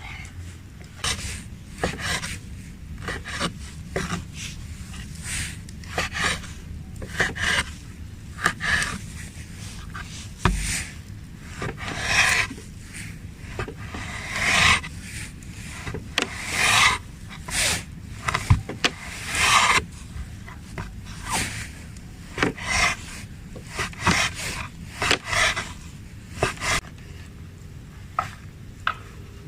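Repeated rubbing and scraping strokes, roughly one a second, with a few sharp knocks among them; they stop shortly before the end.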